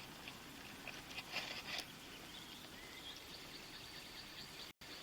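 Low background noise with a few soft rustles about a second and a half in, picked up on a police body-camera microphone; the audio cuts out for an instant near the end.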